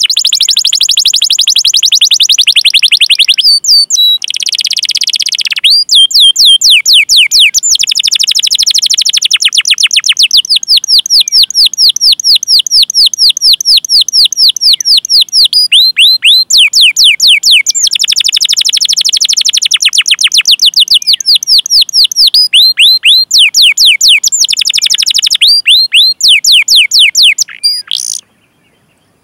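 Canary singing long runs of rapid, rapidly repeated falling 'cuit cuit' chirp notes and rolls, high-pitched, broken by short pauses and stopping briefly near the end.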